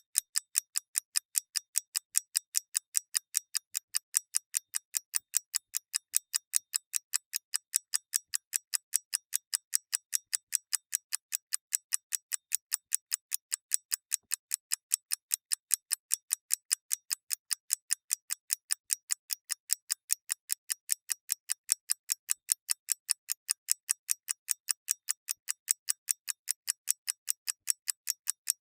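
A clock mechanism ticking steadily: sharp, light, even ticks, several a second, with no low end.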